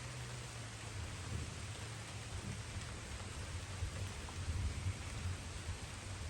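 Light rain falling steadily, with distant thunder rumbling low underneath, swelling about a second in and peaking past the middle.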